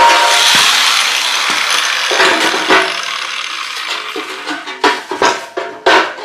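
A power tool cutting steel square tubing, fading out over the first couple of seconds, then a string of sharp metal clanks and knocks with brief ringing as the steel pieces are handled and tried for fit.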